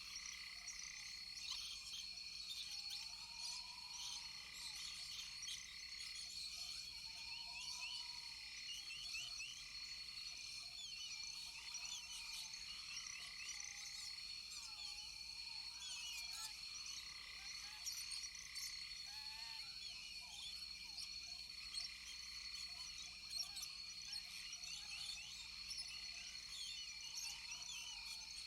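Rainforest frog chorus: many overlapping short chirping calls over a steady high-pitched drone, with a lower arching call repeating every couple of seconds.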